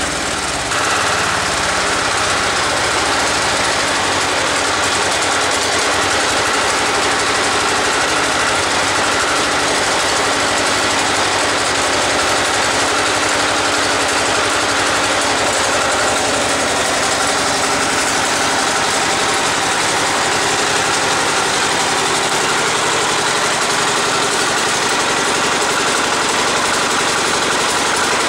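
Diesel engine of a John Deere 110 garden tractor running steadily after a cold start. Its sound shifts slightly about a second in, then holds even.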